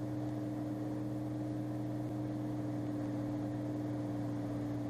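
Cirrus SR22's six-cylinder piston engine and propeller running steadily, heard in the cabin as an even low drone with a constant pitch.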